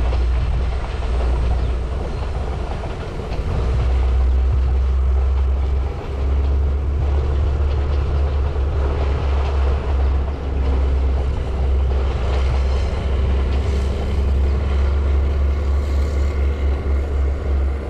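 Passenger train running along a mountainside line, heard at a distance under a heavy low rumble of wind buffeting the microphone that comes and goes in gusts.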